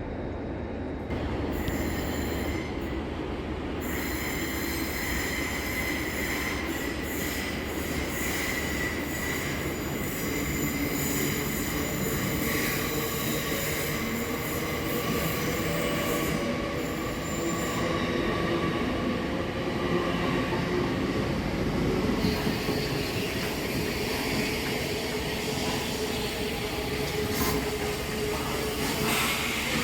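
A train running through a station, its wheels squealing on the rails in long, high, steady squeals over the rumble of the train.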